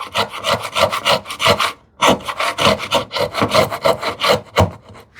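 Router plane skimming the floor of a housing dado in wood, a rapid run of dry scraping cuts with a brief pause about two seconds in, thinning out near the end. The blade is tilted to shave the floor down to its final depth.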